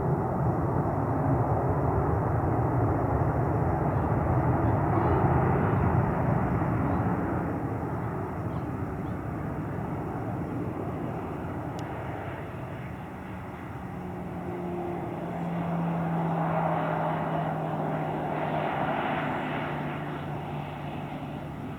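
Jet airliner engine noise, loudest about six seconds in and then fading, swelling again a little past the middle, with a steady low hum joining about two-thirds of the way through.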